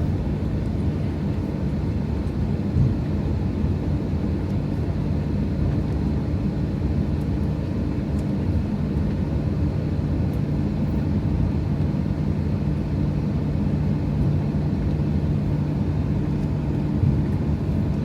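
Steady low drone inside an airliner cabin on the ground before takeoff, unchanging throughout.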